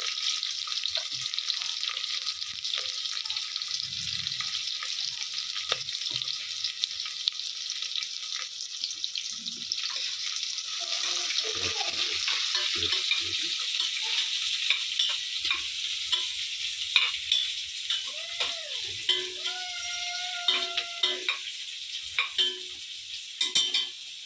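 Chopped onion, with green chillies and whole spices, frying in hot oil: a steady sizzle. In the second half a spoon stirs and knocks against the pan in quick irregular clicks.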